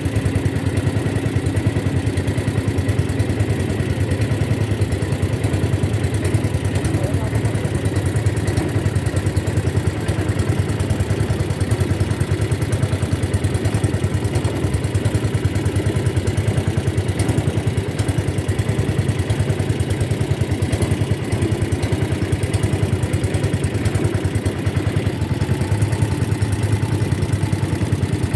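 Motorboat engine running steadily at an even speed, with a fast, regular pulsing that does not change.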